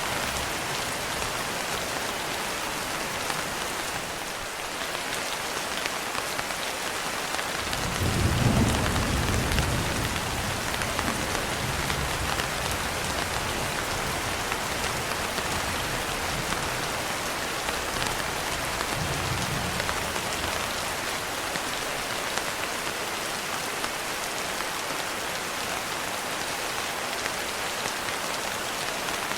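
Steady rain falling throughout, with a low roll of thunder that builds about eight seconds in, is loudest for a couple of seconds, then rumbles off with a smaller swell before fading.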